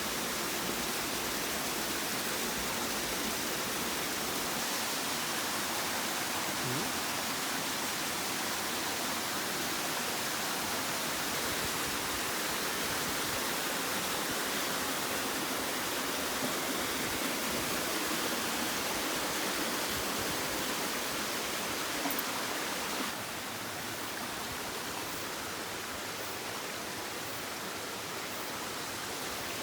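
Waterfall rushing steadily, a dense even roar of falling water; it drops suddenly to a somewhat quieter rush about three-quarters of the way through.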